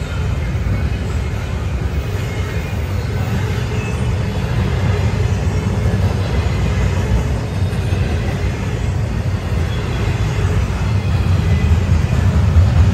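Double-stack intermodal freight train's container well cars rolling past: a steady low rumble of steel wheels on rail that grows a little louder near the end.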